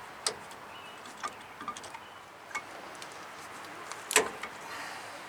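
Scattered light metallic clicks and clinks of brake caliper parts and hand tools being handled, with one sharper knock about four seconds in.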